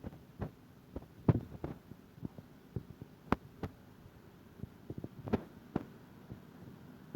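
Irregular knocks and taps, about a dozen spread unevenly, the loudest about a second and a half and three seconds in.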